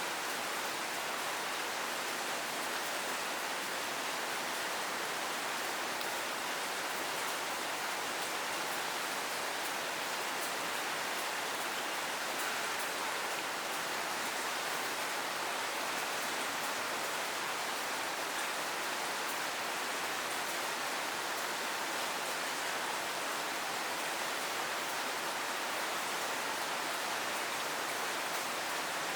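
Steady rainfall, an even hiss of rain falling on surfaces, with fine drop ticks in the high end.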